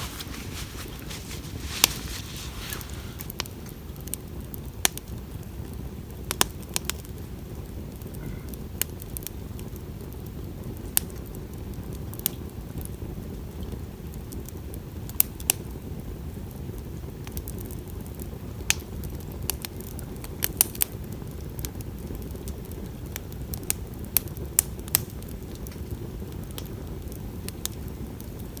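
Wood campfire burning, with a steady low rush of flame and sharp irregular pops and crackles from the burning wood.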